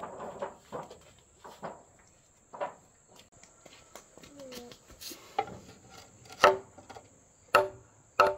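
Sharp knocks with a ringing pitch, struck at irregular intervals and coming closer together near the end, over a steady high insect trill.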